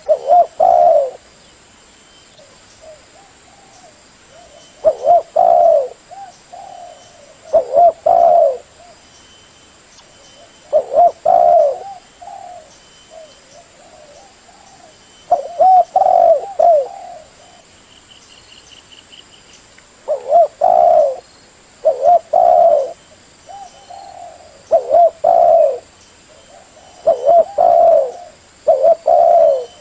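Spotted dove cooing: short phrases of two or three low coos, repeated every few seconds, with softer coos in between.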